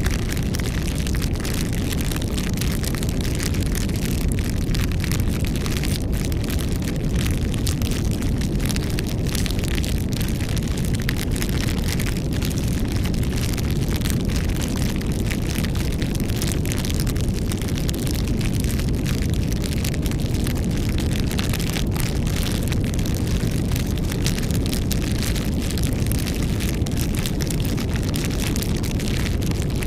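Campfire burning: a steady low rumble of flames with frequent small crackles throughout.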